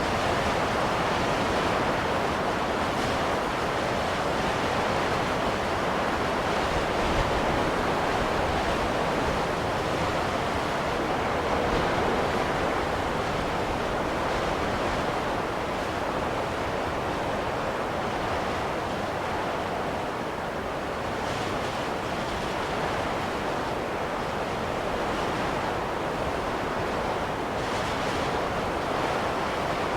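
Steady rushing wind of a snowstorm, rising and easing gently in slow swells.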